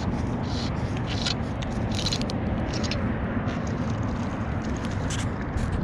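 Wind buffeting the microphone over water lapping against a drifting boat, with irregular short splashes.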